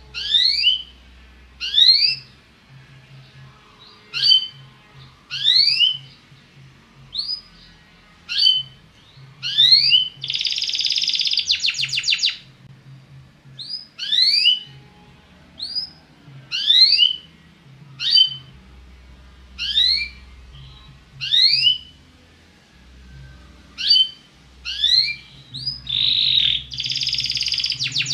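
Domestic canary (Belgian canary) singing: a string of clear upward-sweeping whistled notes, about one every second and a half, broken twice by a fast buzzy trill, once about ten seconds in and again near the end.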